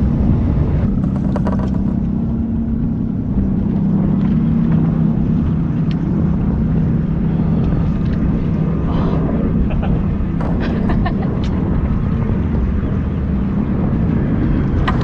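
An engine running steadily, an even low hum, over wind and water noise, with a few faint clicks.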